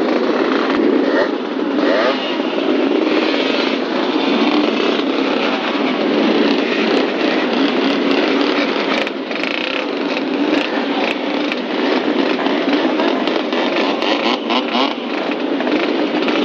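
Old vehicle engine running steadily under way, a loud, continuous, screaming engine noise.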